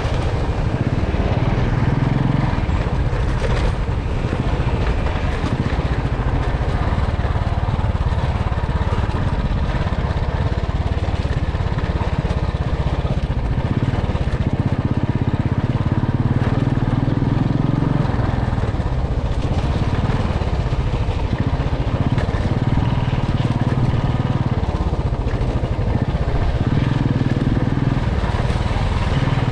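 Motorcycle engine running while riding, its note rising and falling several times with the throttle, over a steady rush of road noise.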